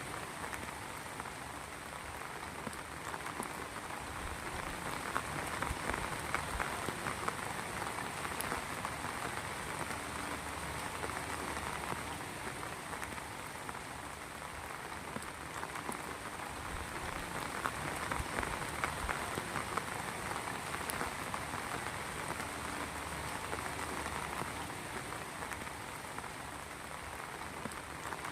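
Heavy rain falling steadily on surfaces, with dense close drop impacts; it swells a little twice.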